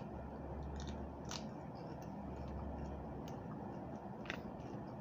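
A person chewing raw vegetables, with faint sharp crunches, the clearest about a second and a half in and about four seconds in, over a low steady hum.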